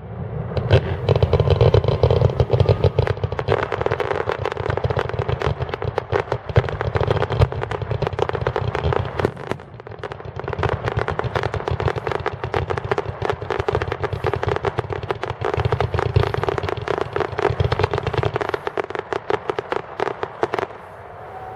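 Fireworks going off in a dense, continuous barrage of rapid crackling bangs for about twenty seconds, stopping suddenly near the end.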